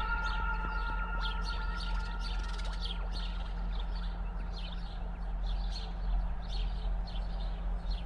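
Small birds chirping again and again over a low steady hum, with a held chord of steady tones fading away about a second in.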